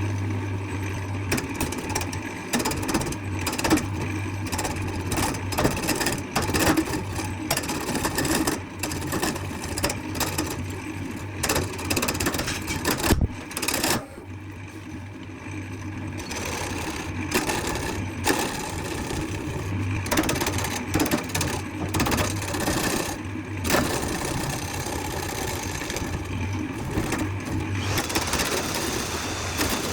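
A workshop machine motor running with a steady hum, overlaid by irregular scraping and clicking. It starts abruptly and dips briefly about halfway through.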